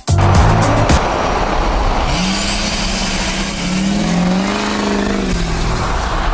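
A motor vehicle's engine rising in pitch and then falling back over about three seconds, over steady road noise, with a thin high whine climbing alongside it.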